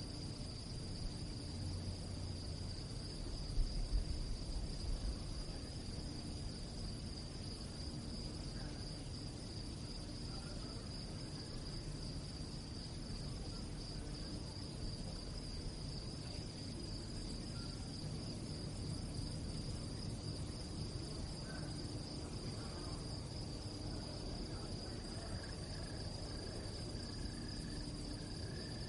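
Crickets chirping at night in a continuous, steady high trill, over a low background rumble that swells briefly about four seconds in.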